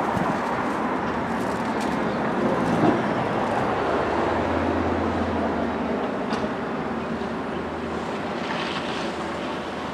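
Steady rushing background noise, with a low hum that comes in about four seconds in and fades out about eight seconds in.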